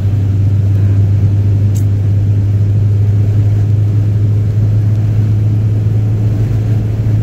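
Steady low hum of a car's engine and tyres heard from inside the cabin while driving at an even speed.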